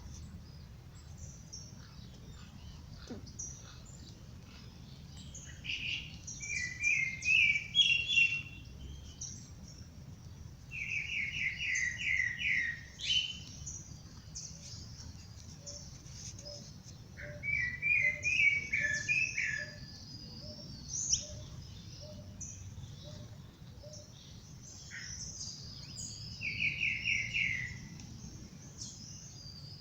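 Songbirds singing: one bird gives a loud phrase of rapidly repeated notes four times, each lasting about two seconds, while other birds keep up higher, thinner chirping throughout.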